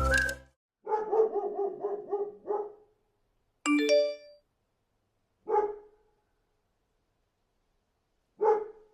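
Dog barking sound effect: a quick run of barks in the first few seconds, then two single barks about three seconds apart. Between them comes a short two-note ding-dong chime, the iPhone Sound Recognition alert that a dog has been detected.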